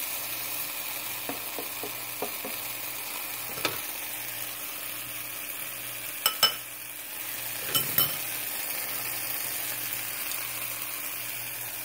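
Diced tomatoes and spinach sizzling in avocado oil in a nonstick frying pan over medium heat, a steady hiss. A few sharp clicks and knocks come through it in the middle stretch.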